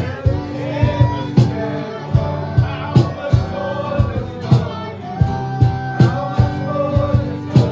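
Live worship band playing, with a steady drum beat about twice a second under sustained chords and singing.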